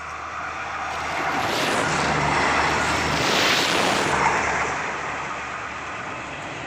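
NKF-class diesel railcar train passing close by, its rumble and rail noise swelling to a peak about three and a half seconds in and then fading, with strong wind buffeting the microphone.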